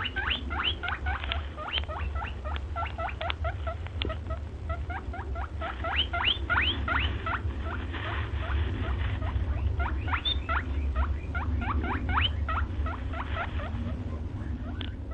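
A small animal squeaking: a fast run of short, high, upward-sweeping squeaks, several a second, over a low rumble.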